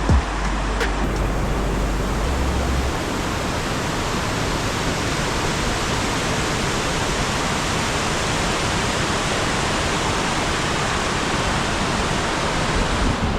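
Waterfall: falling water rushing in a steady, even hiss, with a low rumble over the first few seconds.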